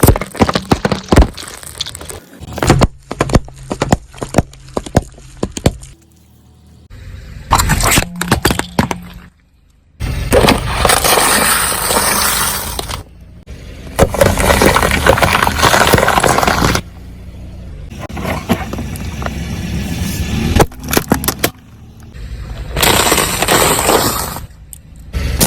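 Car tyres crushing brittle objects: a series of cracking, crunching and breaking sounds in separate clips that start and stop abruptly, with the longest stretches of dense crackling in the middle.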